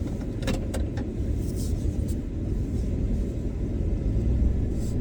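Steady low engine and road rumble inside the cabin of a 2011 Chevy Express van as it drives, with a few light clicks near the start.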